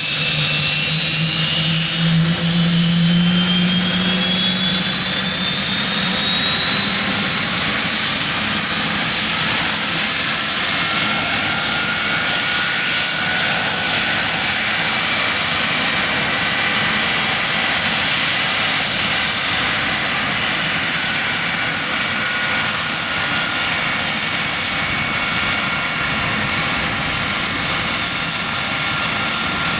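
Hawker Siddeley Nimrod's Rolls-Royce Spey turbofan engines running on the ground, their whine climbing in pitch over the first ten seconds or so and then holding steady over a loud jet rush.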